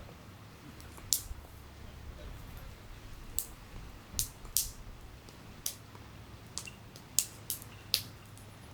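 A series of irregular sharp clicks and light taps, about a dozen, from small objects being handled, over a faint steady low hum.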